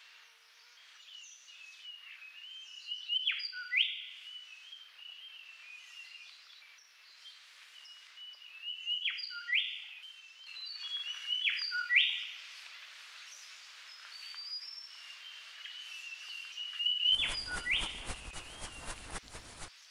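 Birds calling in the surroundings: repeated sharp rising whistles and short chirps over faint background noise. Near the end, a rough crackling noise cuts in abruptly for about three seconds.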